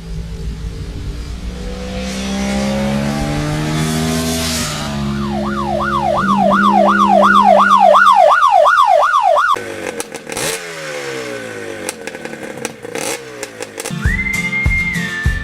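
Motorcycle engine running and revving up. Over it, from about five seconds in, a siren-like tone sweeps rapidly upward about twice a second, then cuts off abruptly into a clatter of clicks. Near the end music starts with a held whistled note.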